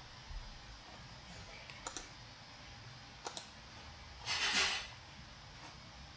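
Computer mouse clicks in quick pairs, twice, about two and three and a half seconds in. A short burst of hiss follows about four seconds in.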